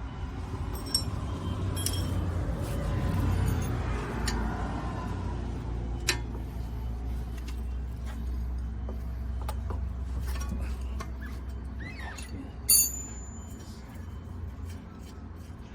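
Hand tools and metal parts clinking now and then, with one sharp, loud clink near the end, over a steady low rumble.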